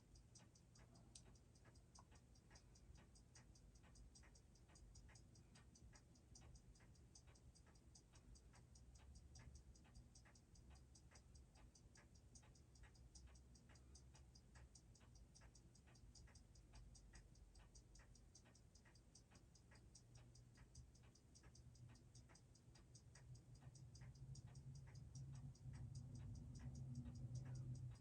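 Faint, steady ticking of a Seiko 6R15 automatic watch movement running, with a low hum that grows louder near the end.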